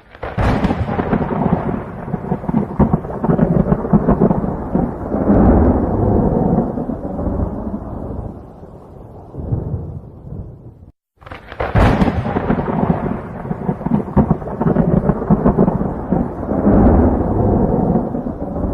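Thunder sound effect: a sharp crack followed by a long rumble that dies down. About eleven seconds in it cuts off abruptly and starts over with another crack and rumble.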